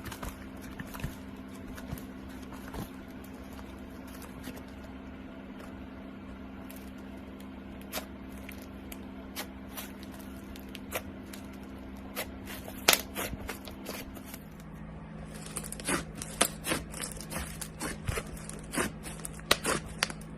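Slime being worked by hand, giving scattered sharp clicks and crackles that come thicker in the last few seconds, over a steady low hum.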